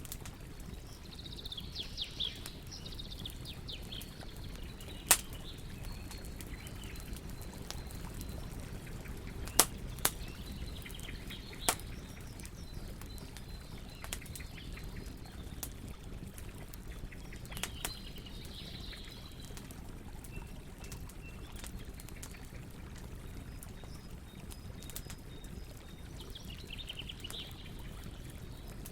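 Wood fire crackling, with a few sharp pops (about four loud ones through the middle), over a steady low rush. Birds chirp in short bursts now and then.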